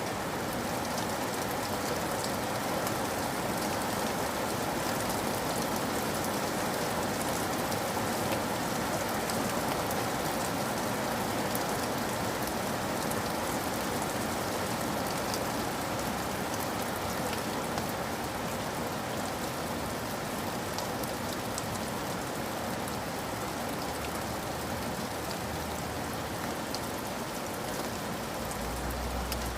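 Steady rain falling, an even hiss with scattered sharper drop ticks. A low rumble comes in near the end.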